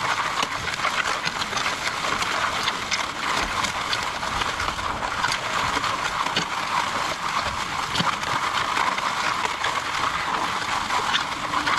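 MudMixer mobile concrete mixer running steadily, with a dense, irregular patter of small clicks and knocks.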